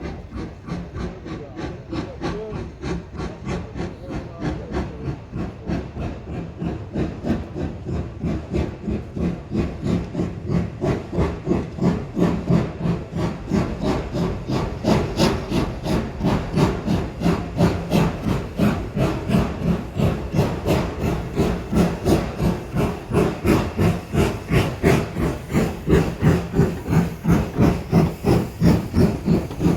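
Steam locomotive working, its exhaust beats coming evenly at about two a second and growing louder.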